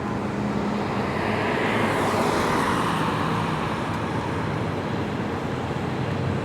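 Jet engines of an Airbus A319 on landing, a steady roar with a high whine that falls in pitch as the airliner passes about two seconds in.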